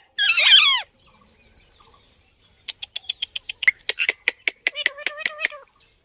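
A parrot gives a loud call that wavers in pitch at the start. After about two seconds of quiet it makes a quick run of short clicking chirps, about five a second, with a brief held note near the end.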